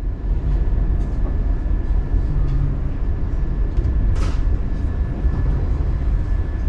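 Interior noise of an SNCB M6 double-decker coach on the move: a steady low rumble of the train running, with a faint steady whine above it and a short hiss about four seconds in.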